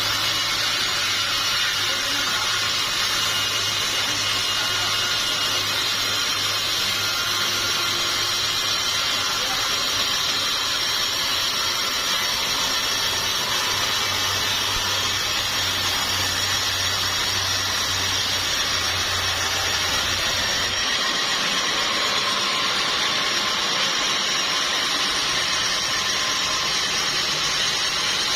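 Sawmill machinery running steadily: a dense, high mechanical noise over a low hum. The hum drops out about three quarters of the way through while the high noise carries on.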